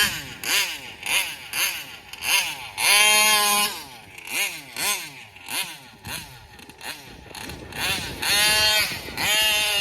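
Taylor 35 reed-valve two-stroke RC engine, fitted with a Roostertail 990 carburetor, blipped repeatedly in short rising-and-falling revs to clear it out. It is held at high revs briefly about three seconds in and again near the end.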